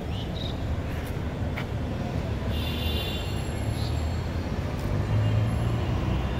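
Railway station ambience: a steady low rumble of trains, with a few faint clicks and a brief high-pitched squeal about two and a half seconds in.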